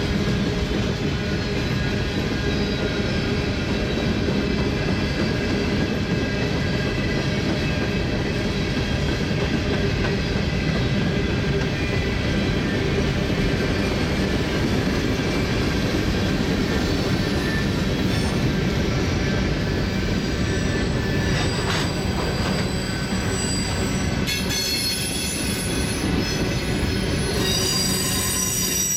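Empty freight hopper cars rolling past on steel rails: a steady rumble of wheels and car bodies, with high-pitched wheel squeal ringing over it. The squeal turns sharper and higher in the last few seconds.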